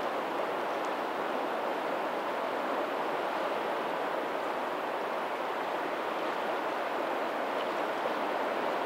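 Steady, even rush of water at a lagoon mouth, where the tidal outflow runs out to meet the sea, with no separate wave breaks standing out.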